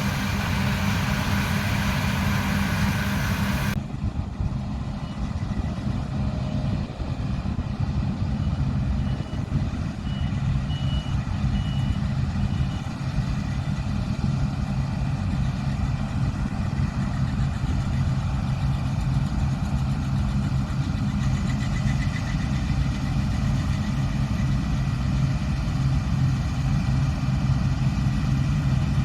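Combine harvester's diesel engine running steadily under load, the sound turning duller about four seconds in. A few faint short high beeps sound near the middle.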